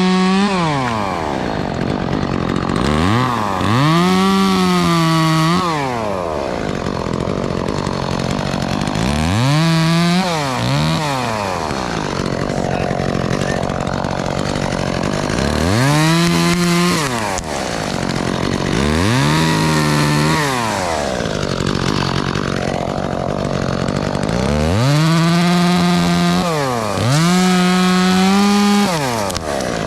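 Two-stroke chainsaw revved up to full throttle and let back down about six times, each burst lasting one to four seconds.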